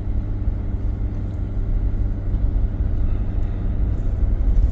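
Ford Super Duty diesel pickup driving slowly on a rocky gravel forest road: a steady low engine and road rumble that grows slightly louder toward the end.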